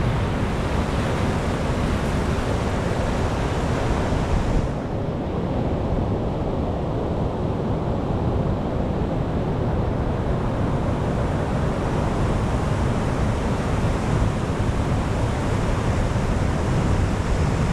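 Ocean surf washing onto the shore in a continuous rush. The hiss falls away abruptly about a quarter of the way in, then builds back up gradually.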